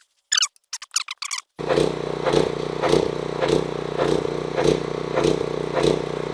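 Briggs & Stratton small engine on a pressure washer running steadily, with a regular pulse a little under twice a second, starting about a second and a half in.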